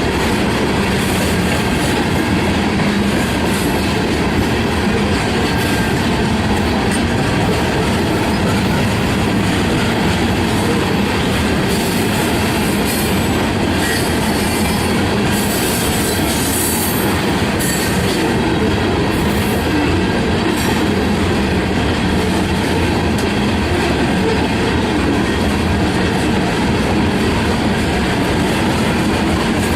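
Freight train cars rolling past close by: steel wheels running on the rails in a loud, steady rush, with brighter high-pitched streaks of noise between about twelve and eighteen seconds in.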